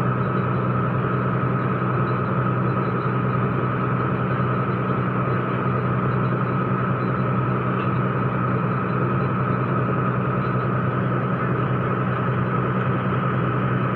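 Komatsu PC200-5 excavator's diesel engine running steadily, with a steady high whine above the low engine drone.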